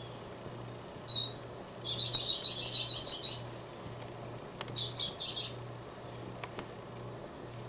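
A small songbird chirping: a short chirp about a second in, then a rapid run of high chirps lasting over a second, and another shorter run a little later. Under it runs a low, pulsing hum.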